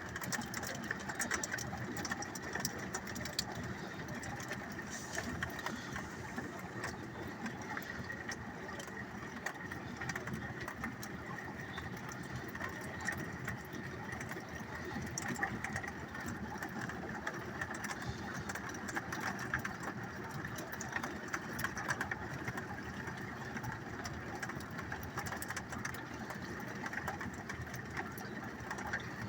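Steady rain pattering, a dense stream of small drop ticks that keeps on without letting up.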